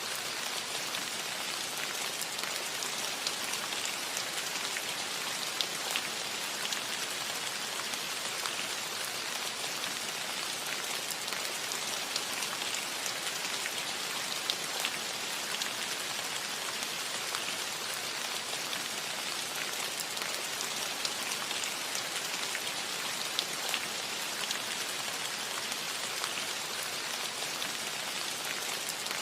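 Steady rain falling on a cottage roof, an even hiss with many small drop taps scattered through it.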